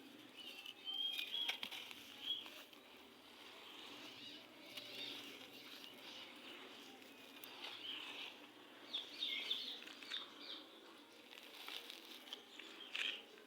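Gritty red sand being crumbled, giving dry crunchy crackles in irregular clusters, the loudest bunches about a second in, about nine seconds in and near the end.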